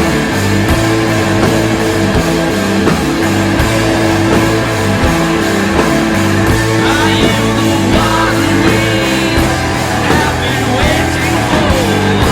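Rock band playing an instrumental passage: distorted electric guitars, bass and drums keeping a steady beat. A wavering high line comes in about halfway through.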